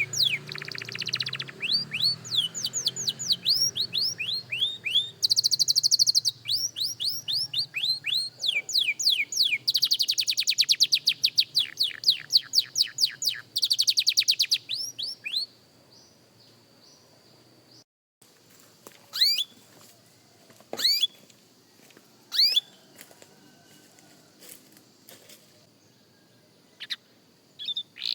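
Young canary singing: fast trills and runs of repeated falling notes for about fifteen seconds, then a pause broken by a few single chirps, with the song starting again at the end.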